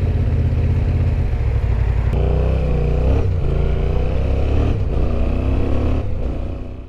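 Yamaha Ténéré 700's parallel-twin engine pulling away, with a low rumble and the revs climbing then dropping twice, like gear changes.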